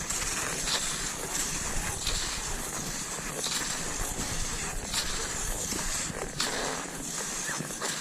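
Cross-country skis sliding and crunching over snow in a steady striding rhythm, with a hissing glide between strides.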